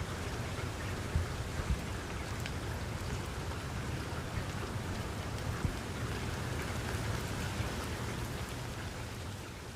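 Steady rain falling and pattering on surfaces, with a few sharper drop taps standing out about a second in, near two seconds and midway.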